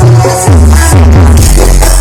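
Very loud electronic dance music with a heavy bass line, played through a huge horeg carnival sound system.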